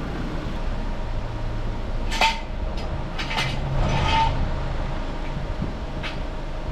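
Steel jack stand and floor jack being handled under a car: a few sharp metal clanks and scrapes, two of them ringing briefly, over a steady low hum.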